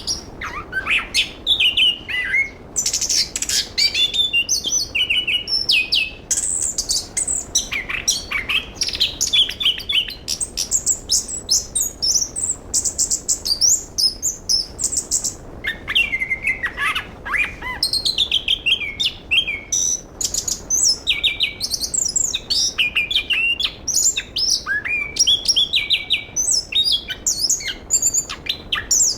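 Chestnut-capped thrush singing a long, rapid, varied warbling song of quick chirps, trills and sweeping whistles, with only brief pauses.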